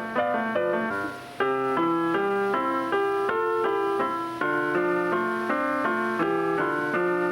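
Background piano music, a steady run of single notes, with a short pause about a second in before the next phrase.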